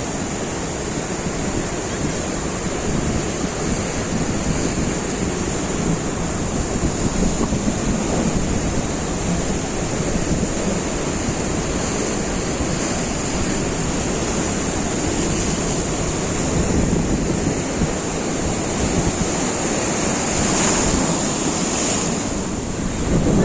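Surf breaking and washing on a sandy beach, a steady rush of waves, with wind buffeting the microphone.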